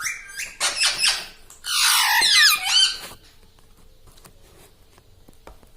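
Indian ringneck parakeet giving a run of shrill squawks and chattering calls over the first three seconds, loudest around two seconds in.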